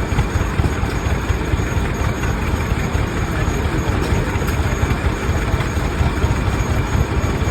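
Rumely OilPull tractors' slow two-cylinder engines running steadily, a dense, even low-pitched exhaust beat.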